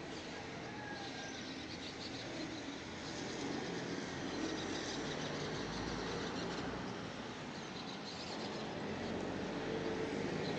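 Residential street ambience: a steady wash of outdoor noise with a vehicle going by, its low rumble swelling in the middle and again near the end, and faint high chirping from birds.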